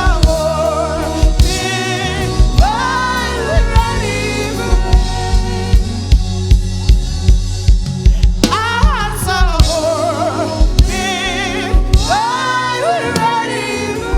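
Gospel singing with a live band: voices holding and sliding between notes with vibrato over a drum kit keeping a steady beat.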